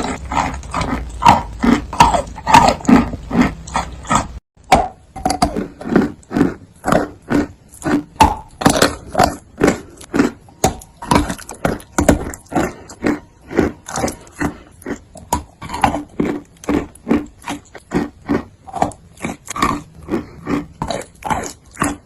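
Close-miked chewing of wet chalk in big bites: a steady run of crunching, squishing mouth sounds, about three chews a second, with a brief break about four seconds in.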